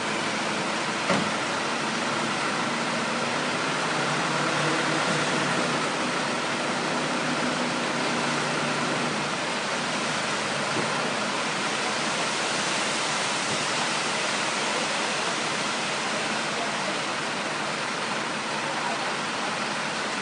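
Dump truck running under a steady rushing noise, with a faint engine hum that fades out about nine seconds in. A single sharp click about a second in.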